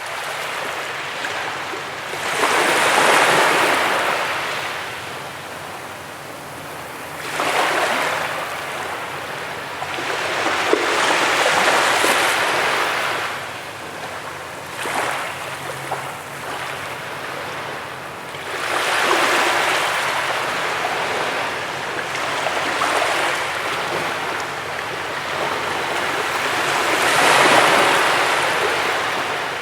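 Sea waves breaking and washing up a beach: a rushing surf that swells and fades every few seconds, about seven surges in all.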